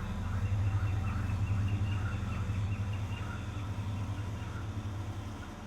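Low-pass-filtered low drone from a King Drone analog synth (six triangle-wave oscillators), pulsing and slowly fading. Over it, a quick run of short high chirps repeats about five times a second during the first few seconds.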